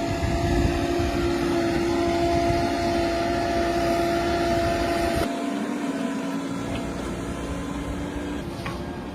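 Heavy diesel engine of an earthmoving machine running steadily. About five seconds in, its pitch steps down slightly and the low rumble drops away.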